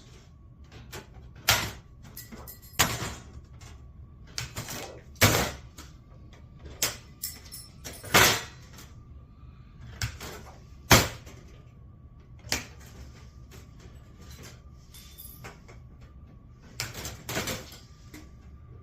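Hand snips cutting sheet metal along a scribed line: a series of sharp metallic snips, irregularly spaced about a second or two apart.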